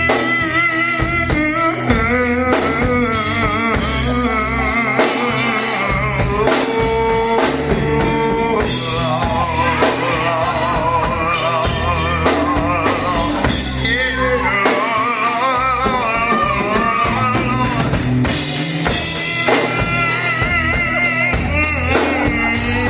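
Gospel quartet band music: drum kit, bass and guitar playing, with wavering sustained melody lines over a steady beat.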